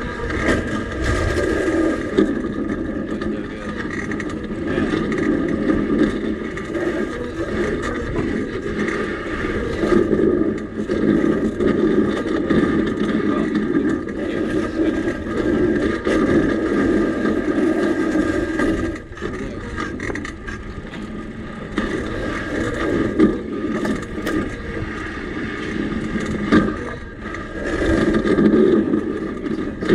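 Home-built railbike rolling along the rails: a steady rumble of wheels on the track, with a constant high ringing over it, rising and falling a little.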